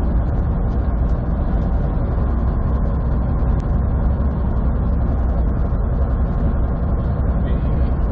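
Semi truck's diesel engine and road noise heard inside the cab while cruising on the highway: a steady low drone with no change in level.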